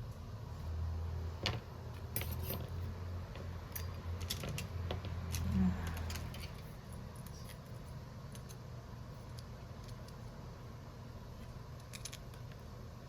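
Small metal hand tools clicking and clinking on a workbench during a phone screen repair. A low hum runs under the first half.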